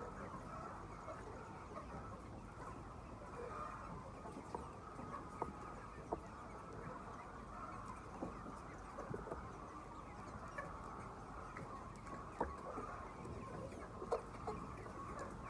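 A large flock of chickens clucking together in a steady, dense chatter, with scattered short taps and clicks.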